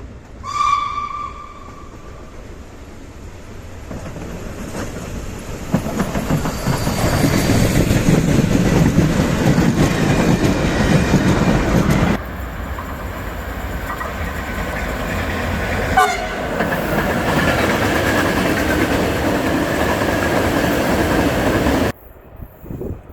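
A train horn sounds one short note as a driver's greeting, then a train comes up and passes close, its running noise building to a loud steady level. The noise drops abruptly partway through, a second short horn note sounds, and the sound cuts off suddenly near the end.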